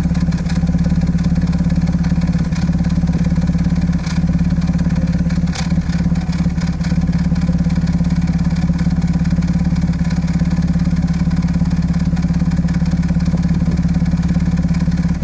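Audi A6 C5 2.7 biturbo twin-turbo V6 idling, steady but with a couple of brief uneven dips in the middle. The engine has a misfire on bank 2 (the driver's side) that new coils and spark plugs have not cured.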